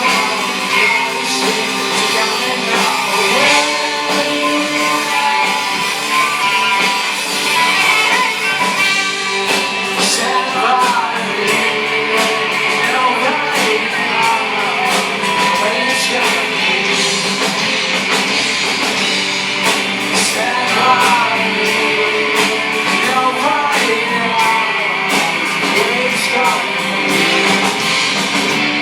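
A rock band playing a cover song live, with a singer, guitars and drums.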